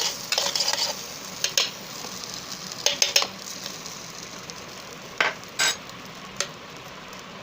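Garlic, ginger and green chili sizzling in olive oil inside an electric kettle while being stirred: a steady sizzle with scraping in the first second, then a few separate knocks of the stirring utensil against the pot.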